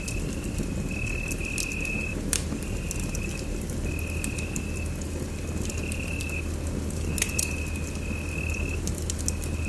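Wood fire in a fireplace crackling, with sharp pops every second or so over a low steady rumble of the flames. A high, thin trill sounds over it in repeated stretches of about a second.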